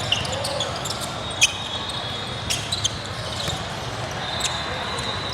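Basketball bouncing on a hardwood gym floor during play, with scattered sharp knocks and squeaks over a steady murmur of the gym.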